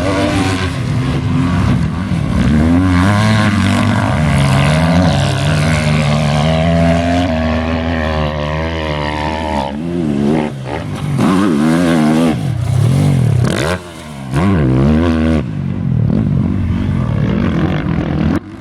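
Motocross bike engines revving hard, their pitch rising and falling again and again through gear changes, with short dips in level around two-thirds of the way through and near the end.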